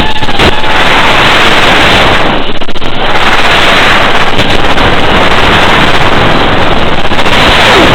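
FPV racing drone in flight, heard through its onboard camera's microphone: loud, distorted wind rush and propeller noise, with a faint motor whine in places.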